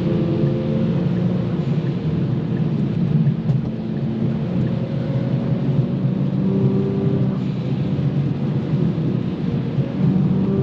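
Kia Stinger GT2's 3.3-litre twin-turbo V6 running steadily while the car is driven, heard inside the cabin as a low drone whose pitch shifts a little, over a hiss of tyres on wet road.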